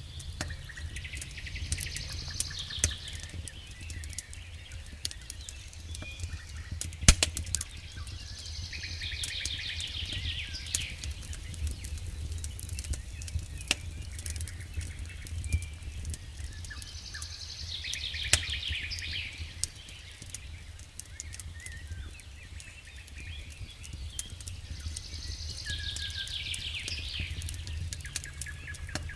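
Campfire crackling with scattered sharp pops, the loudest about seven seconds in, under a low steady rumble. A songbird sings the same rapid trilling phrase four times, about every eight seconds.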